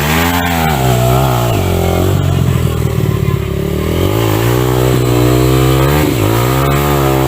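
Dirt bike engine revving under throttle, its pitch rising and falling several times and held high for a couple of seconds in the middle.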